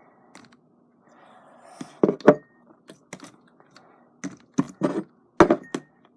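Watery, under-activated fluffy slime being squeezed and stretched by hand: a soft squish, then a series of sharp pops and clicks, loudest about two seconds in and again near the end.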